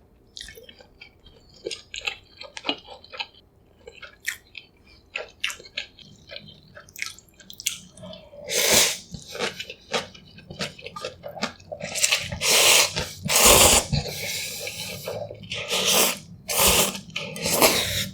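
Close-miked eating of Yukgaejang cup noodles: soft wet chewing and smacking at first, then from about halfway through a run of loud slurps, each lasting about a second.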